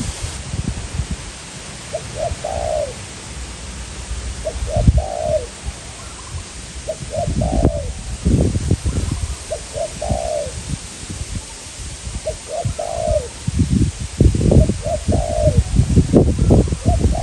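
Spotted doves cooing: a phrase of a few short notes ending in a longer, falling coo, repeated about every two and a half seconds. Strong wind buffets the microphone with gusty low rumbling.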